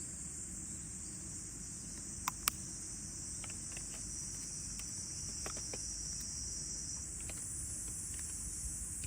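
Insects shrilling in a steady, high, continuous chorus. Two sharp snaps come about two seconds in, followed by a few faint ticks.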